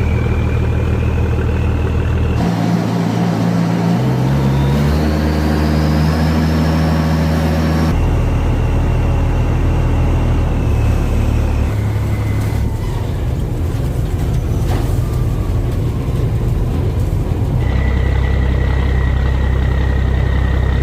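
Boat engine running loud and steady, with a high whine that rises slowly in pitch; the engine sound changes abruptly a few times.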